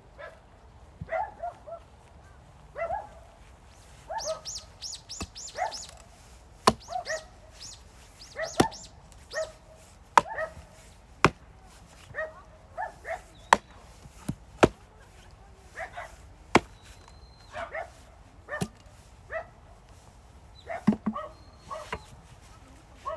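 A dog barking again and again in short calls, mixed with sharp, loud knocks of an axe splitting firewood that come every second or two through the middle of the stretch.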